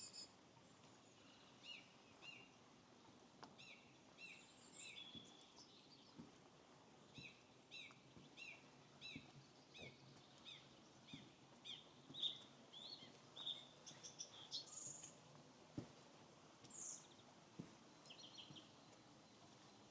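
Faint songbirds singing: one bird repeats a short two-note phrase over and over for much of the time, with a few higher chirps from other birds.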